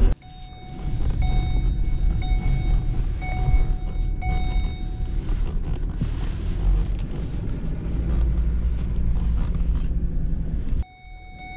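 Old tractor engine running under way, a steady low rumble with road and wind noise, a faint tone pulsing about once a second through the first half. The sound drops out suddenly near the end and comes back.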